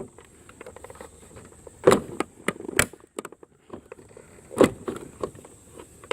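Irregular clicks and knocks of something being handled, with three louder knocks about two, three and four and a half seconds in.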